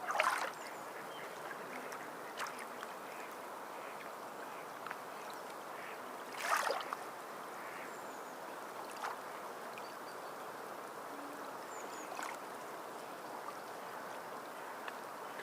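Water lapping steadily, with two louder splashes, one at the start and one about six seconds later, and a few small ones between.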